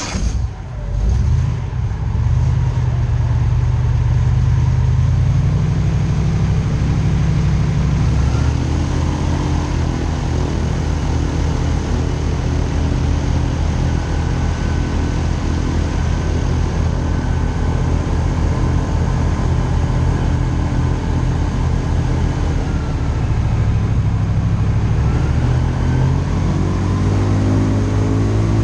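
Airboat engine and propeller running loud, opening up over the first couple of seconds, then holding a steady drone whose pitch steps up and down several times as the throttle changes.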